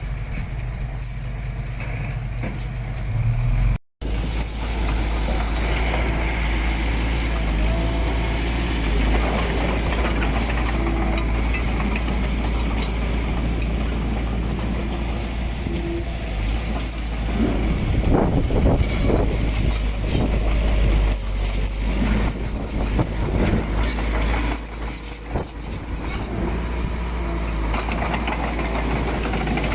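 Diesel engine of heavy earthmoving machinery running steadily with a deep rumble, cut off briefly about four seconds in and resuming heavier, with some clattering in the middle.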